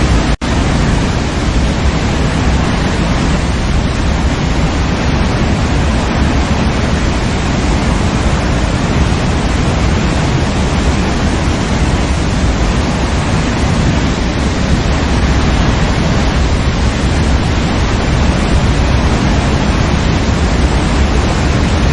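Waterfall rushing steadily, a dense even roar of falling water, broken by a split-second dropout about half a second in.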